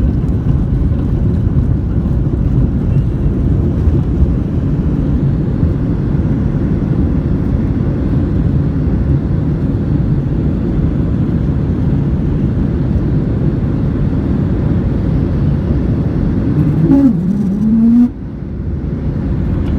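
Boeing 737-800 cabin rumble on the ground after landing: a loud, steady low noise of engines and wheels. Near the end a brief rising tone is heard, then the noise drops suddenly.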